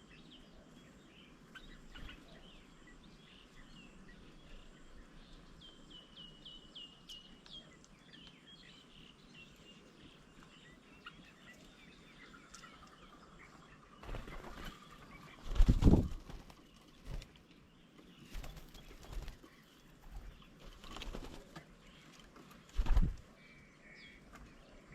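Small birds chirping, a quick series of high chirps in the first half, then wings flapping as birds come and go, in several flurries, the loudest at about the middle and near the end.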